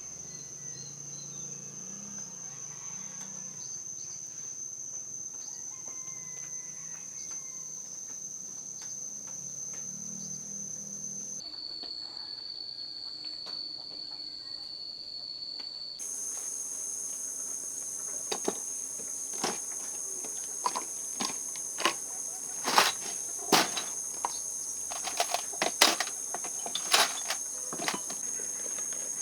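Insects, crickets or the like, droning in a steady high tone that shifts in pitch at two abrupt cuts. In the last ten seconds, a run of sharp clicks and knocks sounds over the drone.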